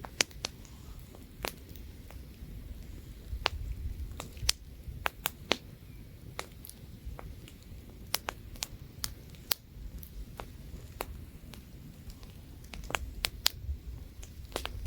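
Wood campfire crackling, with irregular sharp pops and snaps coming several times a second at their busiest, over a low rumble of light wind.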